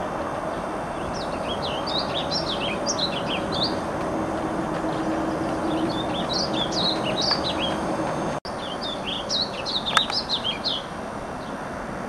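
Warbling vireo singing three long, rambling warbled song phrases of quick up-and-down notes, each about two seconds, over steady background noise.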